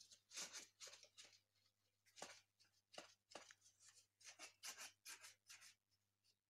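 Faint, quick crinkly rustles of folded paper, a few each second, as an origami flapping bird's wings are worked to flap.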